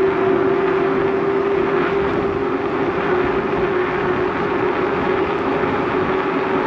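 Riding noise from a moving bicycle: a steady rush of wind over the microphone with a constant whine underneath.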